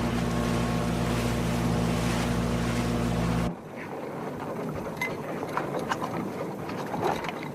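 Boat engine running steadily at cruising speed, with its hum and water rush. It cuts off suddenly about three and a half seconds in, giving way to a quieter hiss with scattered faint clicks.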